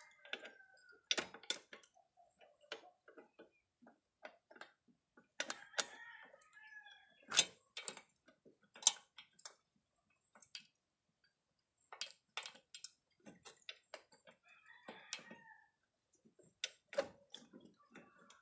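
Irregular sharp metallic clicks and knocks of hand tools working on a motorcycle, likely during the roadside chain repair, with a chicken calling a few times in the background. A thin steady high whine runs under them.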